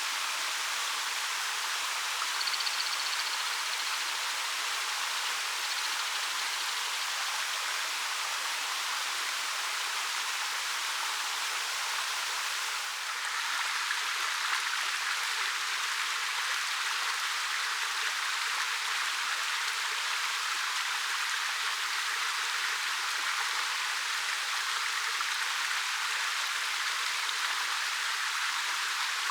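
Waterfall dropping about 13 m over dark rock, a steady hissing rush of falling water with no lull, briefly dipping about halfway through.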